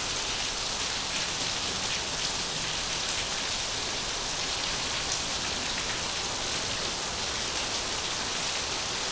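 Steady rain falling, an even hiss with fine patter of drops that holds at one level throughout.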